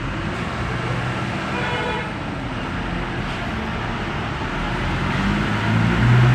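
Road vehicle noise with a brief horn toot about two seconds in, and a louder low hum near the end.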